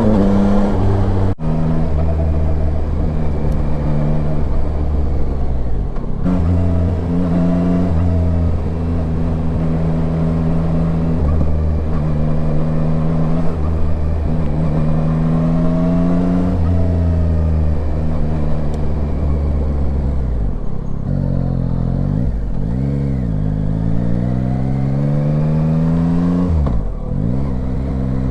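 Yamaha Tracer 9's inline three-cylinder engine running under way, its pitch holding, rising and falling with the throttle. There is a brief drop about a second in and quick dips and swoops in revs a little over twenty seconds in and again near the end.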